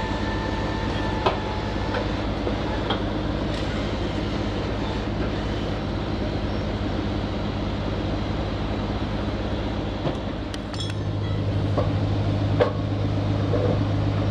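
Heavy diesel engine running steadily, with scattered metallic clanks and knocks. About eleven seconds in, the engine note gets louder.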